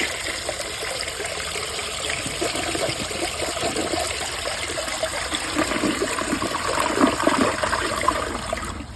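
A 2004 Briggs Altima toilet flushing, heard close up: water rushing steadily into and down the bowl, easing off at the very end.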